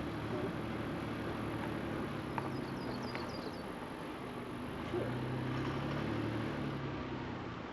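A vehicle creeping slowly along a rough dirt road, with its engine running low and its tyres rolling over the ground. A few faint high chirps come about three seconds in.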